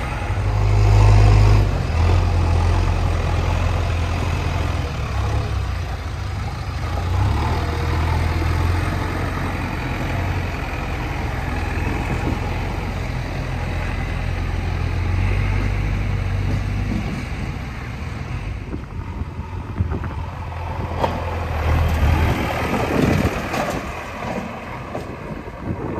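The diesel engine of a JCB 3DX backhoe loader running hard under load while it digs and loads mud, its revs rising and falling. About eighteen seconds in the engine eases off, and a few sharp knocks follow.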